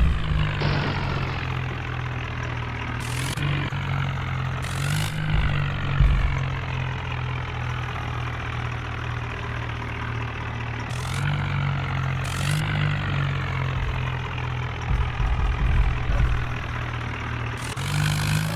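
Diesel tractor engine running steadily, its pitch rising briefly several times as the throttle is blipped, with a few short sharp rattles or knocks over it.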